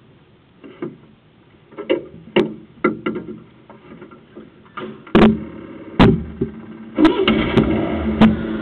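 A string of sharp knocks and clicks, two louder ones about five and six seconds in, then a car engine running steadily from about seven seconds in.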